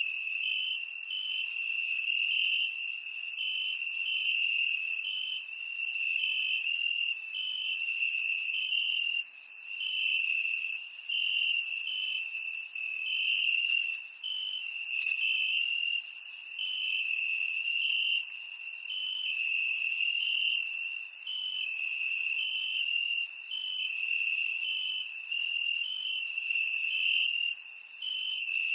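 Crickets chirping: a steady high-pitched trill with a second cricket's short chirps repeating at an even pace over it.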